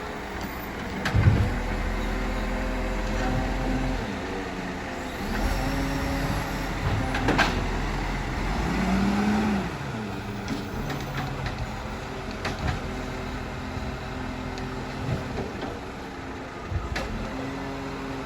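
Iveco Stralis garbage truck running, its engine rising and falling in speed. There is a loud thump about a second in and a sharp clank about seven seconds in.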